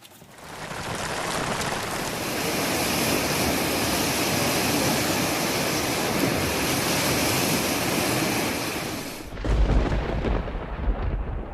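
Heavy rain pouring down steadily. About nine seconds in it cuts off abruptly and a deep, uneven low rumble takes over.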